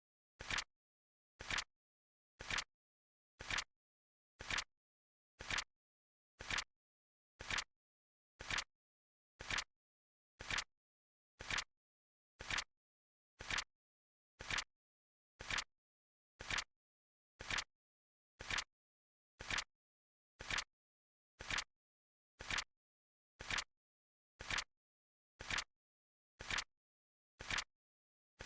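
Flip clock timer sound effect: a short, sharp click once a second, evenly spaced, with silence between the clicks.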